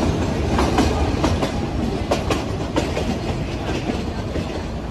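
Nilgiri Mountain Railway toy train coaches running along the track, heard from the coach window: a steady rumble with irregular clacks of the wheels over the rail joints.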